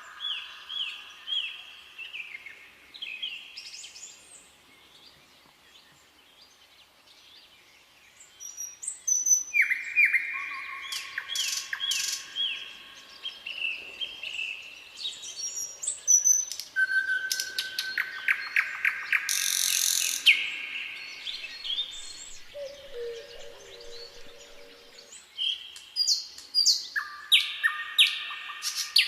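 Woodland songbirds singing, with repeated phrases of quick chirps and trills that overlap one another. There is a quieter lull from about four to nine seconds in, after which the song picks up again.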